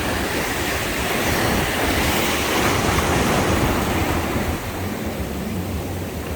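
Sea waves breaking and washing on the shore, the wash swelling and then easing off about four and a half seconds in, with wind rumbling on the microphone.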